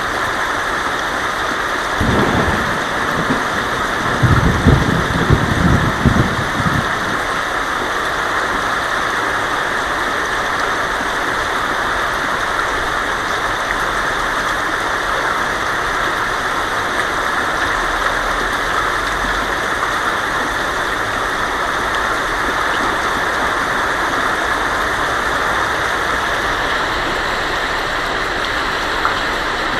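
Heavy rain falling on a tin roof, steady throughout, with thunder rumbling briefly about two seconds in and again, louder, from about four to seven seconds.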